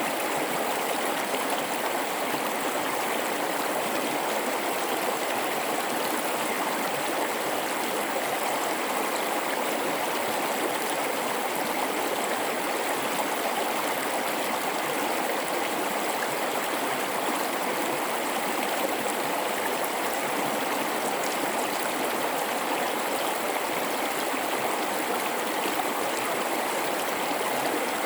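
River flowing through a rocky gorge, a steady rushing and babbling of water.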